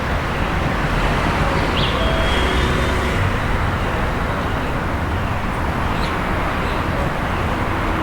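Steady street ambience with a low traffic rumble, swelling slightly a second or two in.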